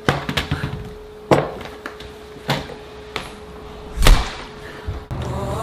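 A series of separate knocks and thumps, roughly one every half second to second, the loudest about four seconds in, over a faint steady hum. Music starts near the end.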